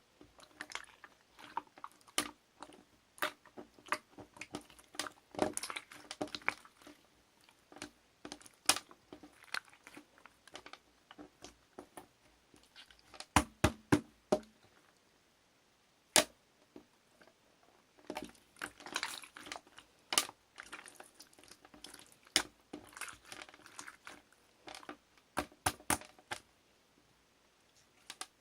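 Pink slime being squished and handled, giving irregular runs of wet clicks and sharp pops, with a quick cluster of louder pops about 13 seconds in.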